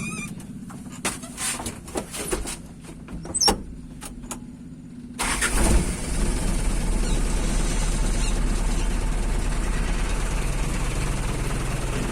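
A few clicks and knocks, then about five seconds in a motorcycle engine starts and runs steadily through its old umplung-style exhaust, which has just been re-welded. It is being test-run after the weld repair.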